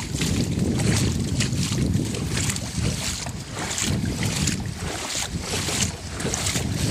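Wind buffeting the microphone in irregular gusts, a low rumble with bursts of hiss.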